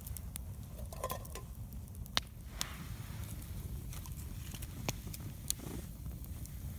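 Fatwood campfire crackling, with scattered sharp pops a second or so apart over a steady low rumble.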